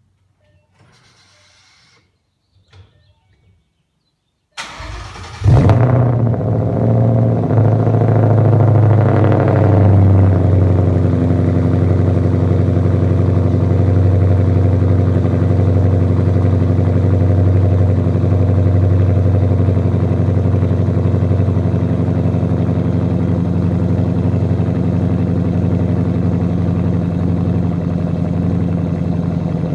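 Cold start of a 2014 Ford Mustang GT's 5.0 V8 through Flowmaster Outlaw axle-back mufflers and a Pypes X-pipe. After a few faint noises, the starter cranks briefly about four and a half seconds in, the engine catches with a loud flare, and it settles into a fast cold idle that eases down over several seconds and then runs steadily.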